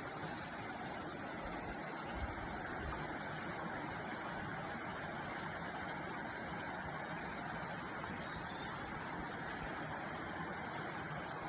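Steady rushing of river water, with a faint short high note about eight seconds in.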